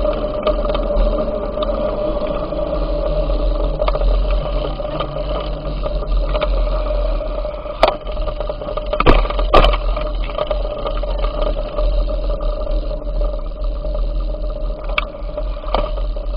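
Steady rumble of wind and road noise on a microphone carried on a moving bicycle, with a few sharp knocks from the bike going over bumps, three of them close together about halfway through.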